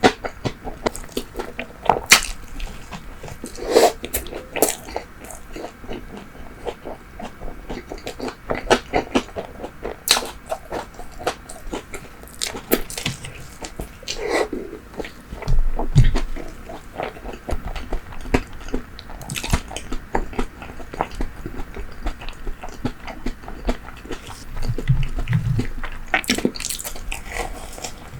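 Close-miked chewing of bread and fried pastry, with irregular bites, crackles and wet mouth clicks, and a couple of low thuds along the way.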